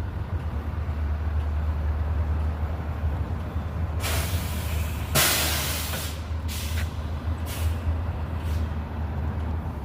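Steady low engine rumble of nearby road traffic, with bursts of hissing: the loudest about four to six seconds in, and fainter ones after.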